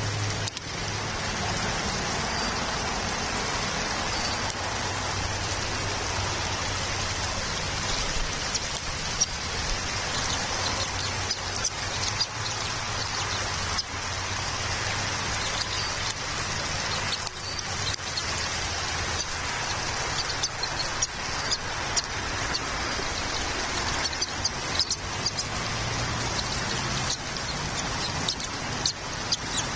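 Steady rain, with single drops hitting close by as sharp ticks that come more often in the second half. A low hum sits under it at the start and again near the end.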